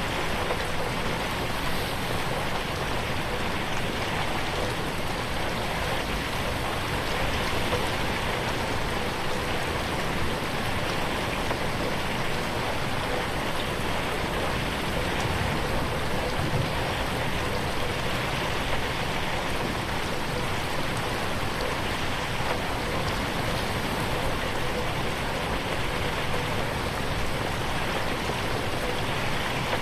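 Steady rain falling on a window pane, a dense, even patter with no thunder.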